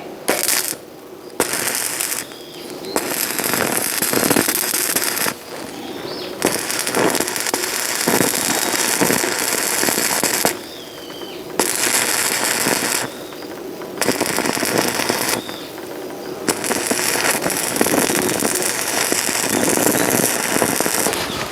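Electric arc welding: a dense crackle and sizzle of the arc in runs of one to four seconds, broken by short pauses as the weld is stopped and restarted, about eight runs in all.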